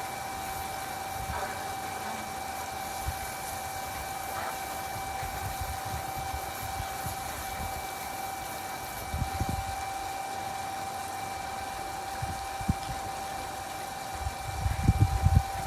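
A steady machine hum with a constant whine. Low rumbling bumps come about nine seconds in and more strongly near the end.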